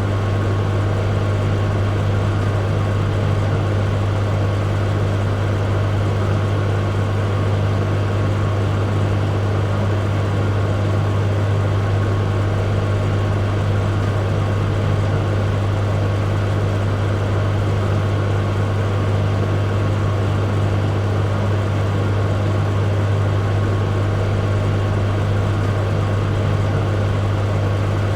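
Microwave oven running: a steady deep hum over an even whirring noise that never changes.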